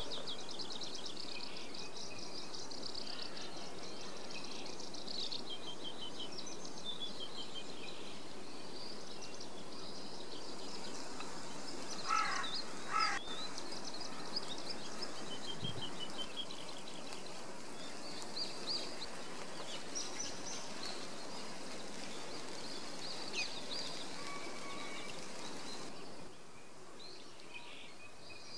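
Several songbirds chirping and trilling in a morning chorus over a steady outdoor hiss, with two louder, lower calls about twelve seconds in. The background hiss drops a little near the end.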